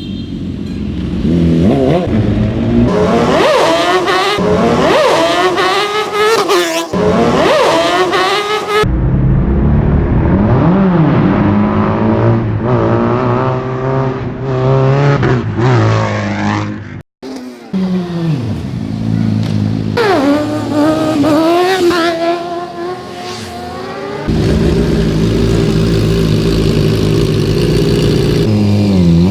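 Superbike engines revving hard, their pitch climbing and falling again and again, in a string of short clips cut together; the sound changes abruptly at each cut, with a brief dropout a little past halfway.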